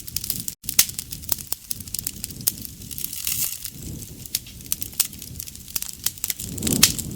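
Wood fire burning: dense sharp crackles and pops over a low rumble of flames that swells a couple of times. The sound cuts out for an instant about half a second in.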